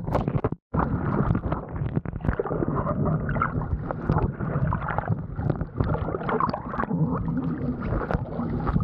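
Water rushing and splashing past a sailing windsurf board with wind buffeting the rig-mounted action camera's microphone, a steady rough rumble; the sound cuts out completely for a moment about half a second in.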